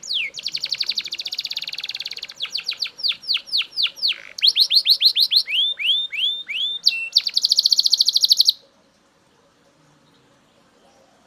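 Belgian canary singing a fast, varied song of quick trills and runs of repeated falling notes. The song stops abruptly about three-quarters of the way through.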